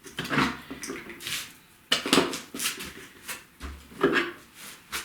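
Irregular metallic clinks, knocks and scrapes of an office chair's metal parts being handled while it is taken apart.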